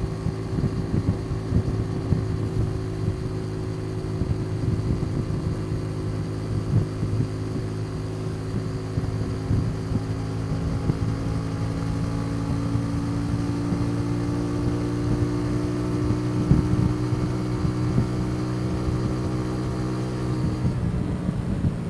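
Motorcycle engine running steadily at cruising speed, with a steady hum whose pitch shifts slightly about two-thirds of the way through and again near the end. Wind buffets the microphone underneath.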